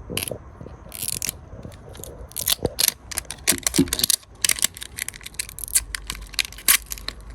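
Plastic packaging of a toy capsule crinkling and clicking as it is torn and pried open by hand, in quick irregular snaps.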